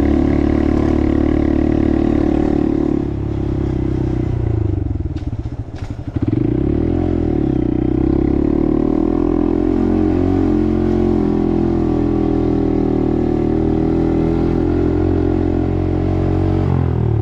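Engine of a small 125 cc single-cylinder Honda motorcycle running under way. It eases off about four seconds in, picks up again with rising revs around six seconds, and drops back near the end.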